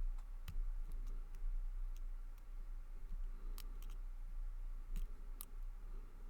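Lock picks working inside a brass padlock: small, irregular metallic clicks and ticks as the pick and tension tool move against the pins, over a steady low hum.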